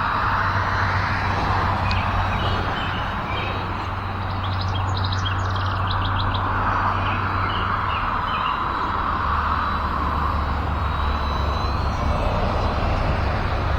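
Steady wind rumbling on the microphone, with birds chirping now and then and a quick run of bird notes about five seconds in.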